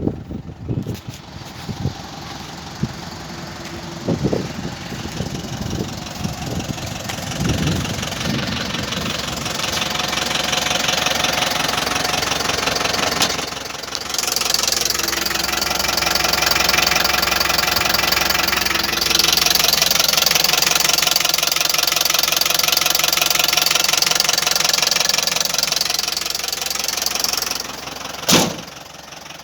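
Tata SFC 407 pickup truck's diesel engine running at idle with a steady fine ticking clatter. Irregular low thumps come in the first few seconds, and there is one sharp knock near the end.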